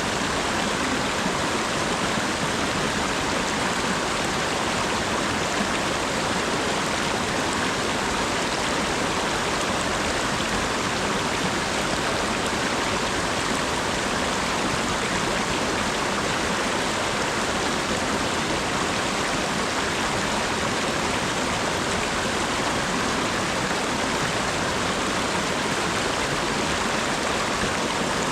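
Steady rain, a constant even hiss of falling water with no single drops or other sounds standing out.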